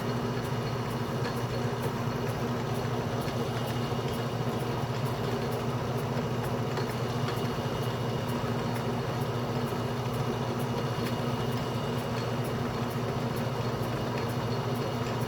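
Atlas metal lathe running steadily at its lowest speed, with a motor and gear hum and faint, regular ticking.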